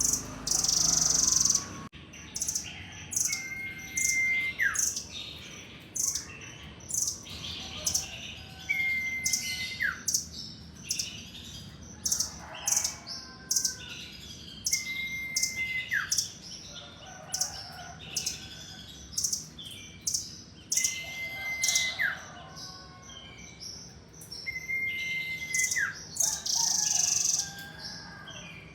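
A caged rambatan loreng (nuthatch) in full song. It gives many rapid, sharp chip notes, and about every six seconds a long flat whistle that ends in a sudden downward drop.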